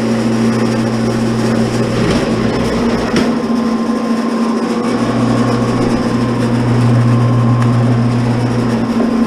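Commercial electric wire stripper running, its motor giving a loud, steady hum, with a couple of short knocks about two and three seconds in.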